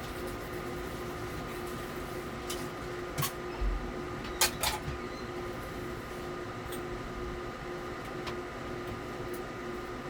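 Steady mechanical hum from a small motor, with a faint constant whine, broken by a few sharp clicks and knocks about three to five seconds in.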